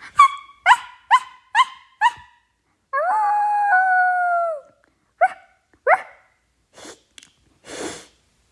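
A person making random vocal sounds: five quick, high yelps, then one long call that drops in pitch partway and sinks away at the end, two more short rising yelps, and a couple of breathy hisses near the end.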